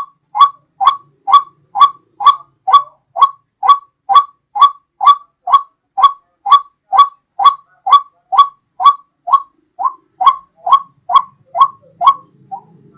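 White-breasted waterhen (ruak-ruak) call, played as a bird-hunting lure: one short rising note repeated evenly about twice a second. The last note is weaker, and the calls stop near the end.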